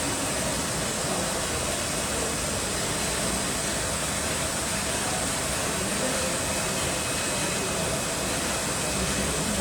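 Steady workshop machinery noise: an even hiss and hum that holds at one level, with no strikes or rhythm.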